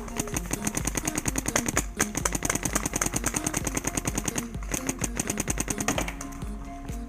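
Paintball marker firing rapid strings of shots, about a dozen a second, with short breaks about four and a half seconds in and again near the end, over background music with a steady beat.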